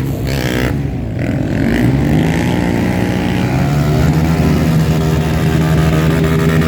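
Off-road trail motorcycle engine revving hard under open throttle. It dips briefly about a second in, then climbs and holds a steady high pitch.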